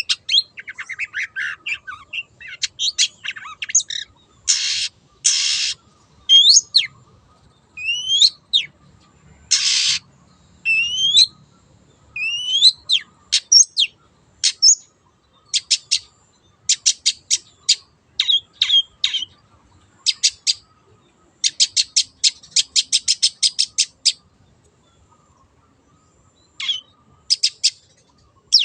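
Long-tailed shrike singing a varied, lively song of sharp chirps and rising whistles. Two harsh rasping calls come early on, and a fast rattling run of ticks comes about three quarters of the way through.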